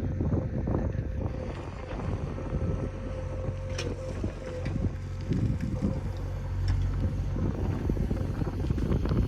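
Diesel engine of heavy earthmoving machinery running steadily, with a steady whine above the low rumble and a few light knocks, and wind buffeting the microphone.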